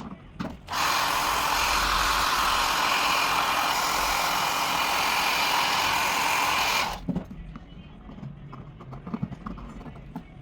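Hair dryer blowing: a brief blip, then switched on about a second in, running steadily for about six seconds before it cuts off.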